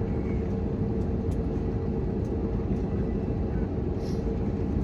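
Steady cabin noise inside an Airbus A321neo: an even rumble with a constant hum from the aircraft's engines and systems, unchanging throughout.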